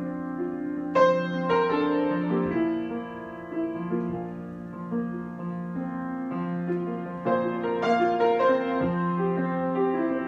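Slow, improvised solo piano: sustained notes over a held low note, with new chords struck about a second in and again near the end.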